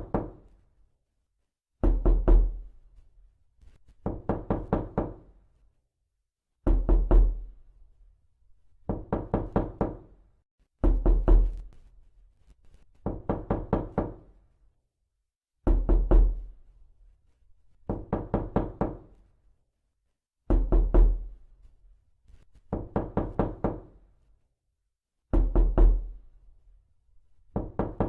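Knocking in quick bursts of four or five knocks, a new burst every two to two and a half seconds with silence between, each burst carrying a deep thud.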